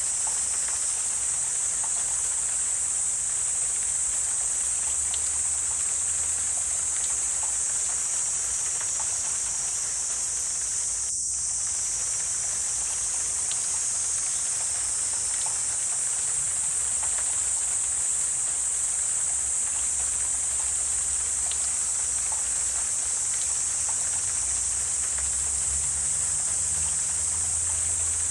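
Dense, steady, high-pitched chorus of insects singing in a wetland, over a faint low rumble.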